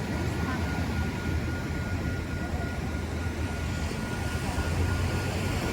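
Diesel engine of a Metrolink EMD F125 locomotive running steadily with a low hum while the train stands at the station.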